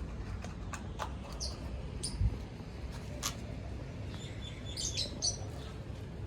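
A bird chirping: a few short, high chirps, with a quick cluster of them near the end, over a steady low hum and a few faint clicks.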